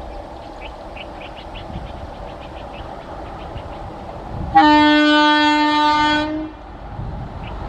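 Indian Railways train horn sounding one long blast of about two seconds, starting suddenly, over the low rumble of the train.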